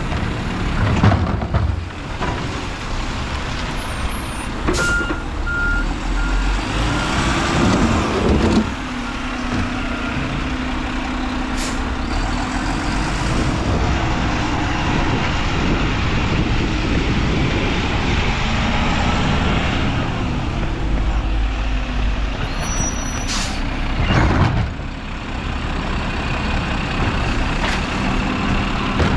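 Mack LR garbage truck with a Labrie body running, with several sharp air-brake hisses and a few short beeps about five seconds in.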